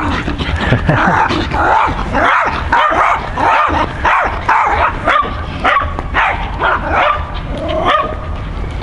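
A dog yipping and whining in a rapid run of short calls, about two a second, a few drawn out into higher whines, over a steady low rumble.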